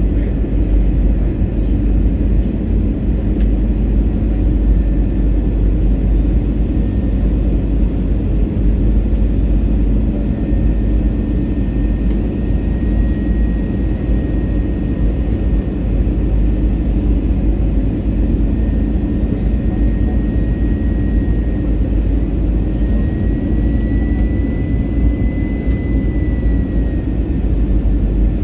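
Airliner cabin noise on the approach to landing: a steady deep rumble of engines and airflow, with a faint high whine that comes and goes and rises slightly in pitch near the end.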